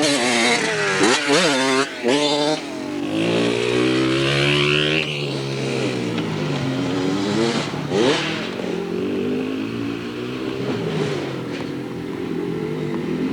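Dirt bike engines revving up and down as the bikes ride, with more than one engine heard at once in the first few seconds. Another sharp rev comes about eight seconds in, then the sound settles to a steadier, fainter drone.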